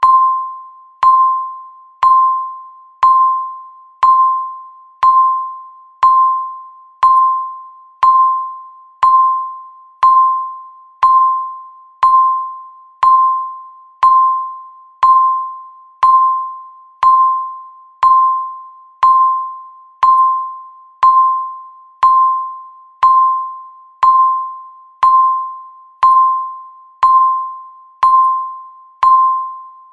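Electronic countdown-timer tick: a short, bell-like ping about once a second, each fading quickly, in a perfectly even rhythm.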